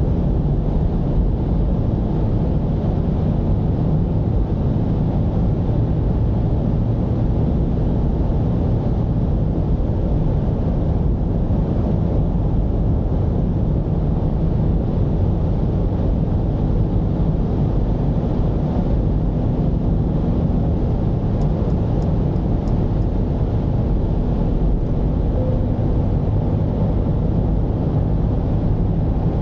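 Mercedes-Benz V220 diesel van driving at a steady speed: an even, low engine drone mixed with road and tyre noise, with no change in revs.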